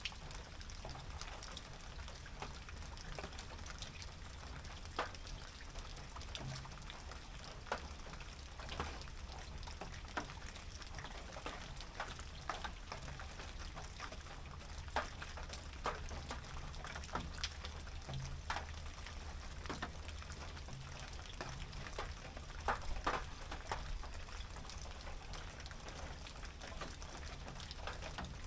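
Rain falling on a tin roof: irregular sharp taps of individual drops striking the metal over a steady hiss, with a low rumble underneath.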